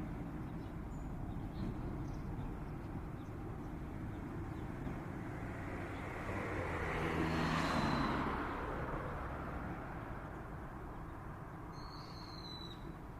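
Quiet street ambience with a vehicle passing: a swell of road noise that rises to its loudest about eight seconds in and then fades. A short high chirp sounds near the end.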